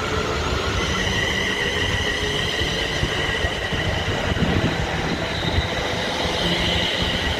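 London Northwestern Railway electric multiple-unit train pulling out of the platform, with steady high whining tones from its traction equipment that step up in pitch about a second in, over the rumble of the wheels.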